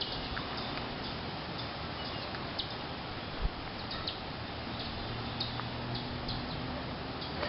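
Steady rain and wind noise, with scattered short high-pitched ticks and a single low thump about halfway through.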